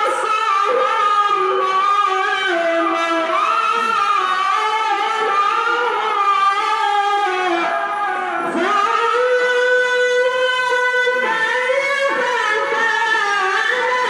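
A male qari's solo voice reciting the Qur'an in melodic tilawah style, pitched high with continuous melismatic ornaments. It dips briefly about halfway through, then holds a long steady note before ornamenting again.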